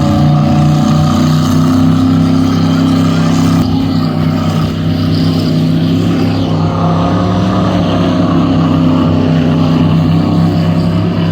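Powerboat engine running loudly at fairly steady revs, its pitch wavering slightly.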